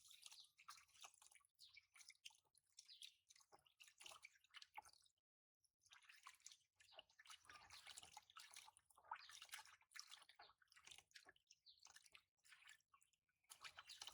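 Faint dripping and small splashes of bath water as a baby monkey is washed, with soft wet squishing.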